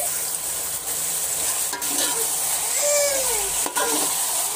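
Raw chicken pieces sizzling in hot oil and masala in a metal pot, being stirred with a metal slotted spoon that knocks sharply against the pot twice. The chicken has just gone in to be browned.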